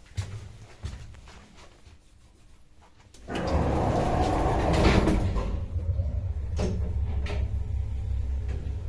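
Passenger lift: a couple of sharp clicks, then about three seconds in a loud clattering start that settles into a steady low hum as the lift runs, with a few more clicks.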